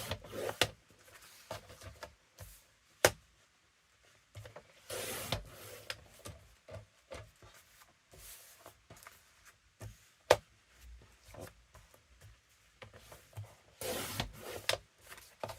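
Paper being handled and trimmed: several short sliding, rubbing swishes of paper against a cutting surface, with a few sharp clicks, the loudest about three seconds and about ten seconds in.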